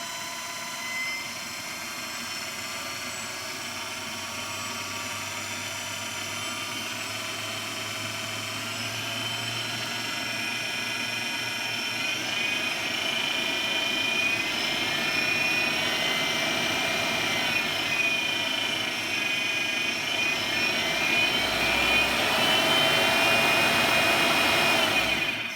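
Car alternator converted to run as a motor, spinning under a speed controller: a steady whirring whine that grows louder and climbs in pitch as the rotor's field voltage is lowered, trading torque for speed. It cuts off suddenly near the end.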